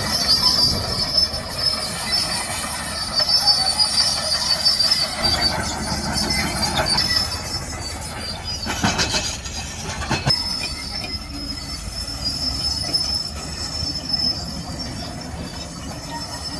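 Heavy steel machinery squealing: a steady high-pitched metallic squeal over a low running rumble, with two sharp clanks about nine and ten seconds in.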